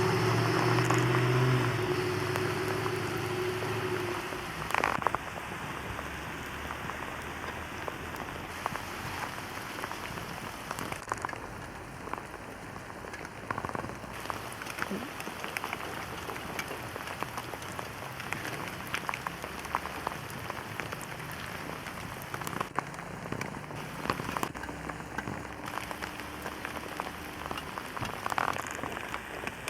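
Steady rain falling on surfaces, with many individual drops ticking. An engine hum fades away over the first few seconds.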